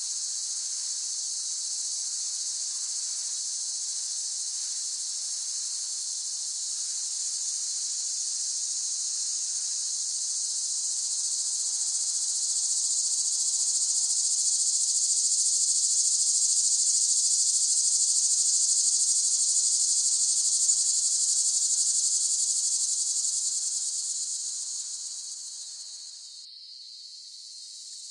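Cicadas buzzing in a dense, steady, high-pitched drone that swells louder through the middle, then fades away near the end before starting to build again.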